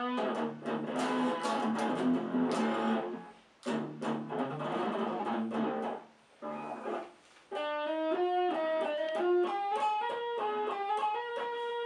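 Cort X-series electric guitar being played: strummed chords for about the first six seconds, with a brief break after about three and a half seconds, then after a short lull a single-note melody line.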